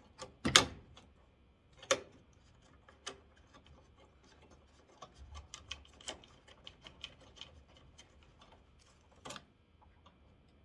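Scattered clicks and knocks of small screws and a hand ratchet being handled as screws are driven back into a headlight assembly. Sharper knocks come about half a second in, at about two seconds and near the end, with a run of lighter ticks in the middle.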